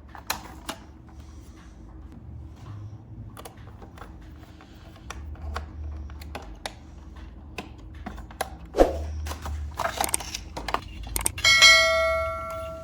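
Clicks and small knocks of hands handling plastic toy parts and packaging, then near the end a bell-like chime that rings for about a second and a half and fades.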